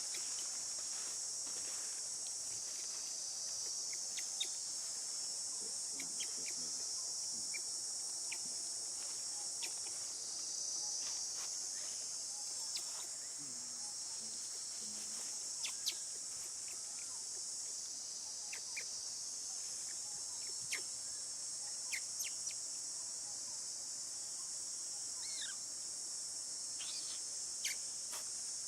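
Steady, high-pitched chorus of insects, with scattered short clicks and brief chirps over it.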